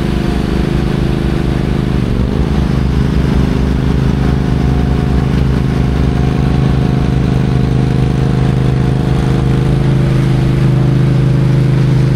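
Heavy diesel engine running steadily under a light load, its pitch dipping briefly about two seconds in.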